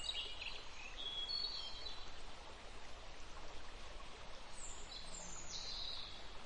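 Quiet outdoor ambience: a low, even hiss with small birds chirping now and then, in short high calls.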